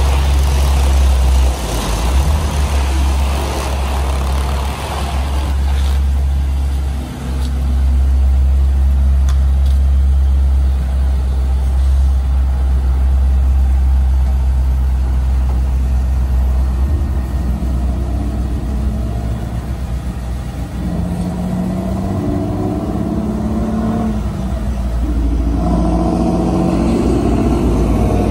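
The 6.1-litre SRT Hemi V8 of a 2010 Dodge Challenger SRT8 idling steadily.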